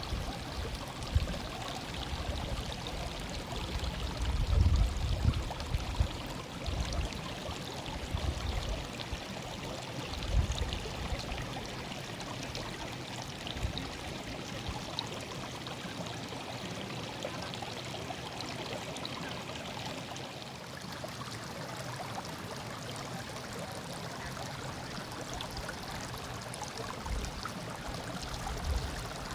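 Running water of a stream murmuring steadily, with irregular low thumps in the first ten seconds or so.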